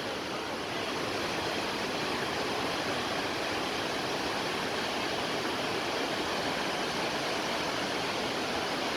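Large mountain waterfall rushing steadily, a dense, even sound of falling water with no breaks.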